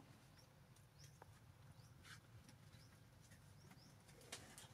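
Near silence with a low background hum and a few faint, short, high chirps from birds, about four of them, spaced irregularly.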